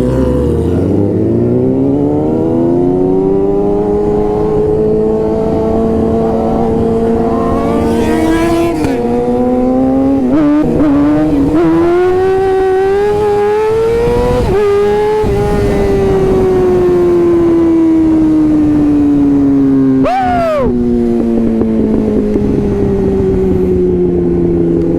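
Yamaha R6 sportbike's inline-four engine heard on board while riding: the revs climb at the start and hold, change through a few quick gear shifts in the middle, climb again, then wind down slowly over the last ten seconds with a brief break in the engine note about twenty seconds in.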